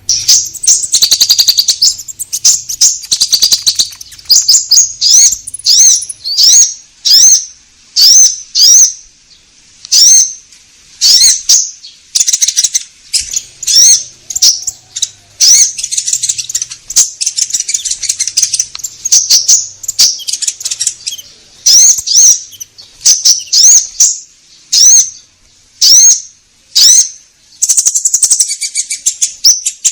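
Konin bird calls played as a lure: a long run of short, high, sharp chirps, each with a quick upward flick, repeated about once or twice a second with brief pauses between runs.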